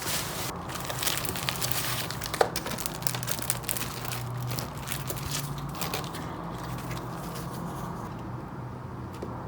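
Crinkling and crackling handling noise with many scattered small clicks, busiest in the first six seconds and thinning out later, over a steady low hum.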